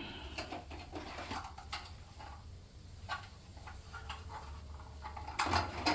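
Light clicks and taps of small metal tools being handled, with a louder cluster of knocks near the end, over a steady low hum.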